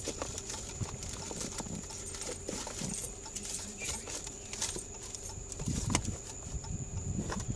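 Irregular light clicks and knocks of objects being handled, with a few heavier knocks near the end, over a faint steady high-pitched whine.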